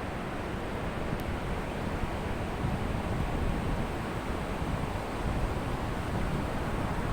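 Ocean surf washing onto a beach: a steady rush of waves that swells a little about three seconds in.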